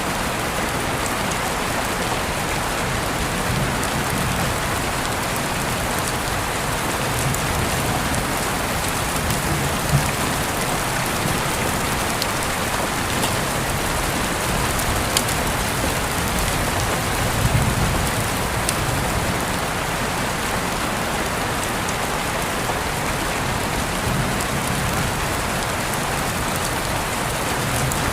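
Steady rain falling, an even hiss of drops with a few sharper ticks of single drops.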